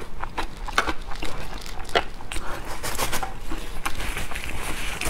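Close-miked chewing and mouth sounds: a run of small, sharp, wet clicks and crackles. About four seconds in, a soft papery rustle as a tissue is wiped across the mouth.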